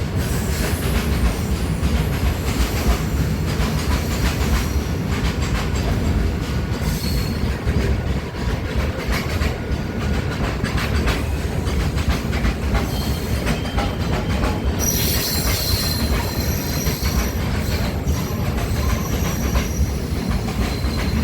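Train running on the rails, a steady rumble with constant wheel clatter; from about three-quarters of the way in, thin high-pitched wheel squeal joins in.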